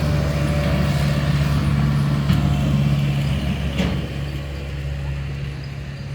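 Engine of a farm machine running steadily with a low drone, with a couple of sharp clicks in the middle. It eases off slightly a little past halfway.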